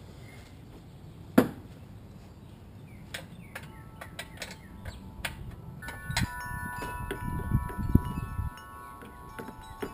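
Metal parts and hand tools clinking and clicking while a sheet-metal engine cover on a lawn mower is being taken off, with one sharp metallic knock about a second and a half in. From about halfway through, struck metal rings on in several overlapping tones.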